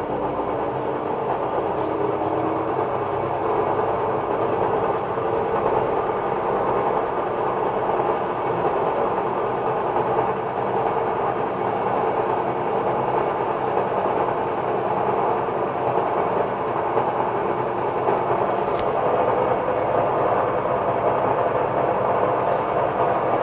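Electrolux LSE09 washer-dryer running with a steady, unbearably loud mechanical rumble and hard vibration. The owner traces the fault to a service done on the machine.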